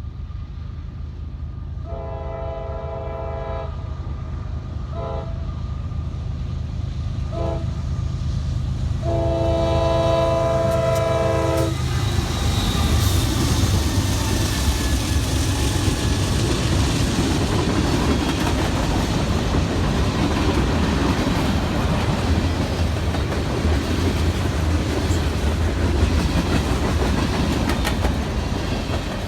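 Freight train locomotive air horn sounding four blasts (long, two short, long) as the train approaches, then the train running past with loud rumble and wheel clatter.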